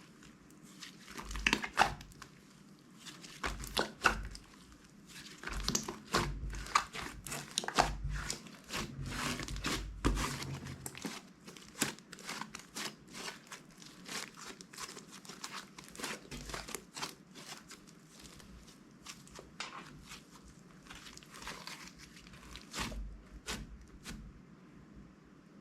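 Plastic bags crinkling and crackling as they are handled, with soft low thumps through the first half and lighter, sparser crackling after that.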